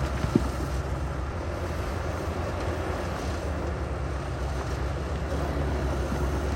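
Heavy construction machinery's diesel engine running steadily with a low rumble, with wind noise on the microphone. A single short knock comes just after the start.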